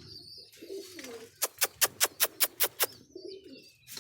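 Domestic pigeons cooing, low and wavering. About a second and a half in, a quick, even run of about eight sharp clicks lasting about a second and a half cuts across the cooing.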